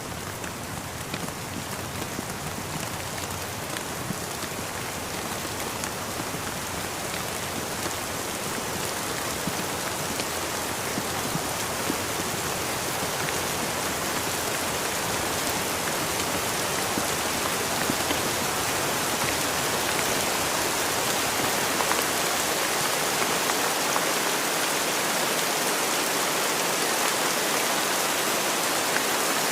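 Steady rain falling, with many small drops tapping; it grows slowly louder.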